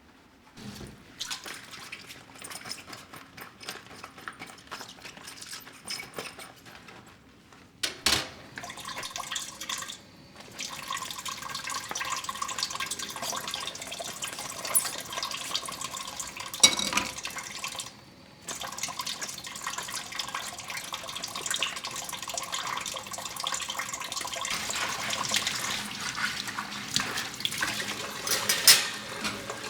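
Water running from a kitchen tap into a sink, splashing, stopping briefly a few times, with a few sharp knocks.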